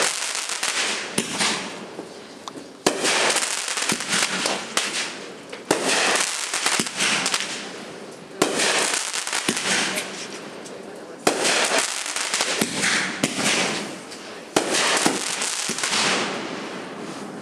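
Fireworks going off in a steady series: a sharp bang about every three seconds, six in all, each followed by a crackling hiss that fades away.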